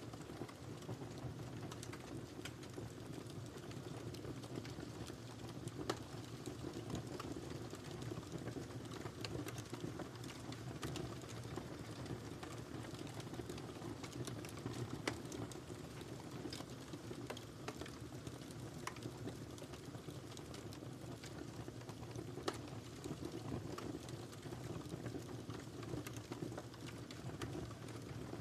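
Wood fire in a fireplace crackling steadily over a low, even rumble of flames, with irregular small pops and a few sharper, louder snaps scattered through.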